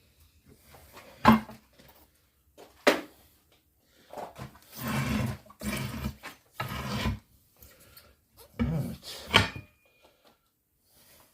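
Hand work on a steel wheel and tyre: three sharp metallic knocks with stretches of scraping and shuffling between them.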